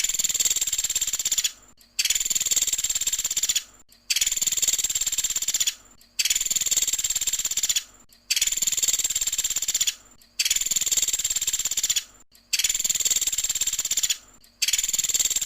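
Looped recording of a pelatuk sampit, a small bird known to Indonesian bird keepers by that name, singing its high, rapid trilling 'tembakan' song. Each trill lasts under two seconds and is followed by a short gap, repeating steadily about every two seconds.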